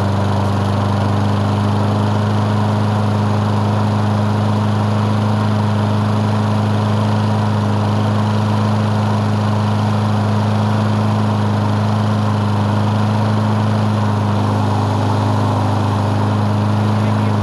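Small Briggs & Stratton single-cylinder lawn mower engine running steadily at an even speed just after a primed cold start. The engine is low on oil, which the owner puts down to it burning oil.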